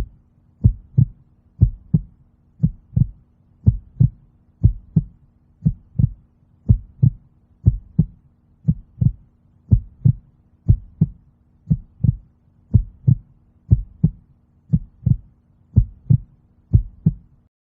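Heartbeat: a steady lub-dub, two low thumps close together, repeating about once a second, over a faint steady hum.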